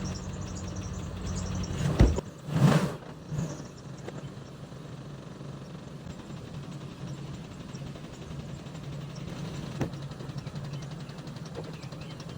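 Pickup truck engine running steadily at low revs while the truck works its way out of deep mud. About two seconds in there is a sharp knock, followed by a brief loud rush of noise.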